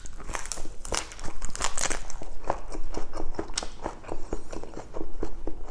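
Close-up eating sounds: crisp lettuce leaves crunching and crackling as they are bitten and chewed, in quick irregular crunches.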